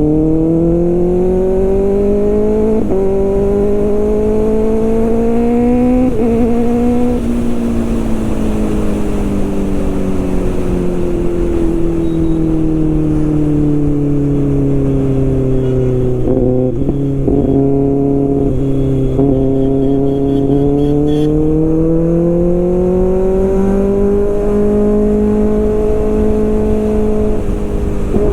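Kawasaki ZX-6R's inline-four engine running under load while riding. The engine note climbs through the first several seconds with a break in pitch near three and six seconds, then winds down slowly and holds low. It rises again about two-thirds of the way through and levels off, over a low wind rumble.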